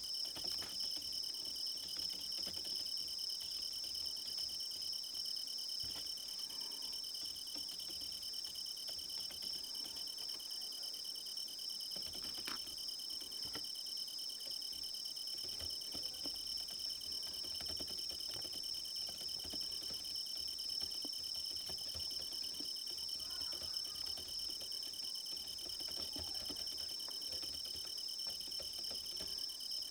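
Crickets chirping in a steady chorus, with faint scattered clicks and taps underneath.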